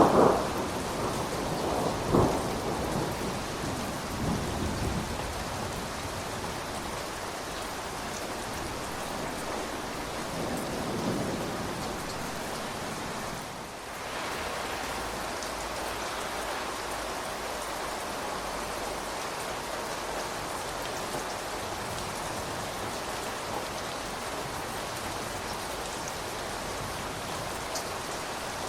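Steady rain falling, with a low rumble of thunder that is loudest at the start and fades away over the first several seconds. After a brief dip about halfway through, the rain goes on as an even hiss.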